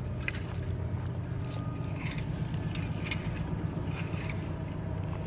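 A steady low engine-like drone, with a few faint clicks over it.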